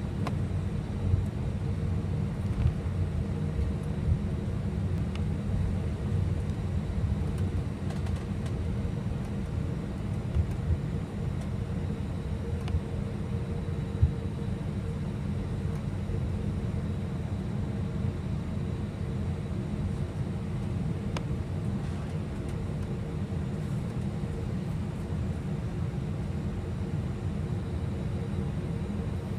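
Steady low rumble inside the cabin of an Airbus A319 airliner, engines and cabin air running with a constant hum, with a few brief knocks in the first quarter or so.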